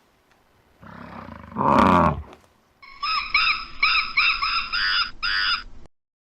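Animal calls: one call falling in pitch about a second in, then a quick run of about seven short, repeated high calls that stops abruptly near the end.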